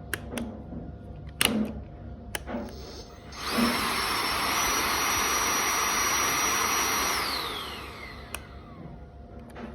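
Bosch cordless stick vacuum switched on: its motor spins up with a rising high whine, runs steadily for about three and a half seconds, then winds down with a falling whine. A few sharp clicks come before it starts.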